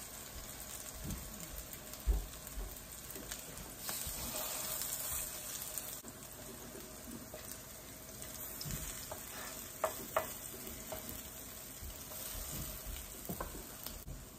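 Cod fish cakes sizzling steadily in hot fat in an electric skillet, with a few light knocks and clicks, the loudest about two seconds in and a pair near ten seconds.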